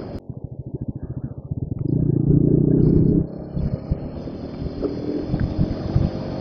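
Bajaj Pulsar RS200 motorcycle running on the road, heard from the rider's helmet. A louder stretch of engine sound from about two seconds in lasts a little over a second, then it settles back to a steadier run.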